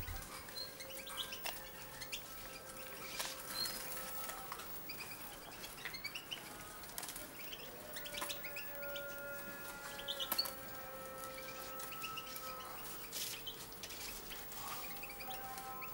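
Small caged songbirds chirping and twittering in short repeated calls, over a few long steady held tones.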